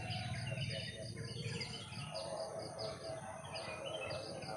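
Birds chirping over and over in quick, short, high notes that drop in pitch, above a steady low background rumble.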